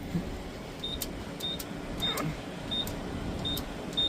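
Keypad on a car wash pay station beeping six times: a short, high beep with a click for each key press as a six-digit wash code is entered.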